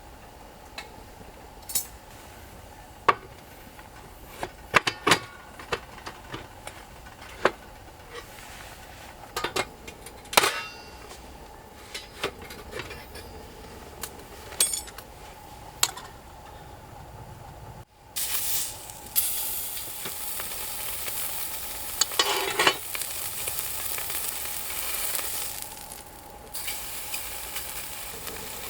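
Scattered sharp clinks and taps of cooking utensils. Then, about two-thirds of the way in, food starts sizzling in a hot pan, with a burst of metal scraping partway through, before the sizzle drops off near the end.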